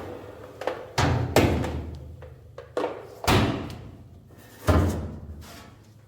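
A run of about six knocks and thuds, irregularly spaced, each with a short ringing tail. Under them a low steady hum fades away.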